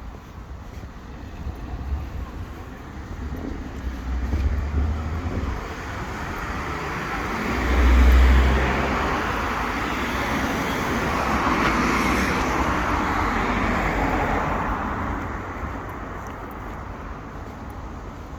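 Road traffic passing on a street: the engine and tyre noise of a vehicle swells from about six seconds in, stays loudest through the middle, and fades away near the end, with a few low rumbles along the way.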